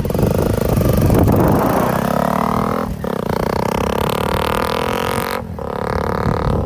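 Honda CBR 250 motorcycle with a modified exhaust accelerating, its engine note climbing in pitch and dropping off sharply twice as it shifts up a gear, about three and five and a half seconds in.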